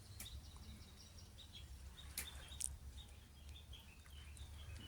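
Pied kingfisher knocking a fish against a metal bar: a few faint sharp knocks, the loudest two close together about two seconds in. Faint short bird chirps repeat over low steady background noise.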